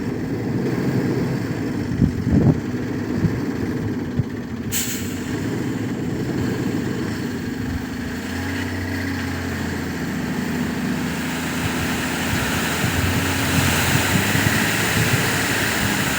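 Heavy dump truck's diesel engine running steadily, with a short sharp hiss of air about five seconds in. A broad rushing noise builds up over the last few seconds.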